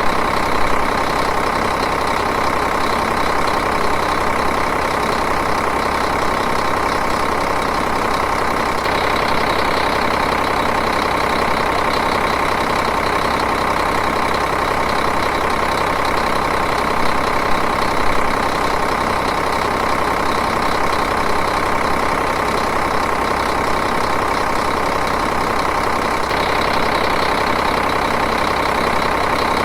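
Diesel engine idling steadily at an even speed.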